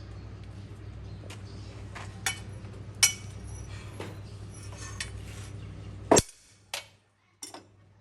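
Sharp metallic clinks of steel pieces or tools being set down and knocked together, over a steady low machine hum that stops suddenly about six seconds in.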